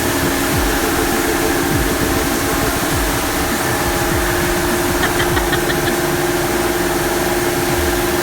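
Automatic car wash machinery running around a dirt bike: a steady hum over a constant hiss of spray or blower noise, muffled by a waterproof camera housing. A short run of faint ticks comes about five seconds in.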